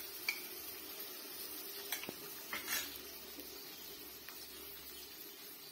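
Onion and spice masala sizzling in oil in a metal pan while it cooks down, with a few light clicks of a spoon against the pan near the middle.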